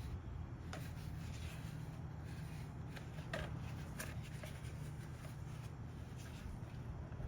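Hands flexing and handling rubber air-intake hoses, scuffing and rustling, with a couple of light clicks about three and four seconds in, over a steady low hum.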